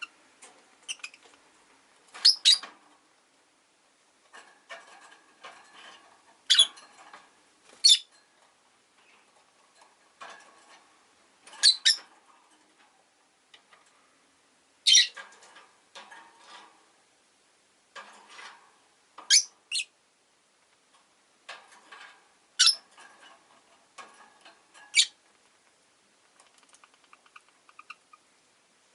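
Rosy-faced lovebirds in a cage giving short, sharp, high-pitched chirps every couple of seconds, some in quick pairs, with quieter chattering and small clicks in between.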